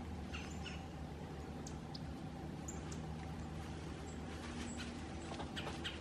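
Scattered short, high, squeaky bird chirps: a few about half a second in, odd single notes, and a small cluster near the end. A steady low hum runs underneath.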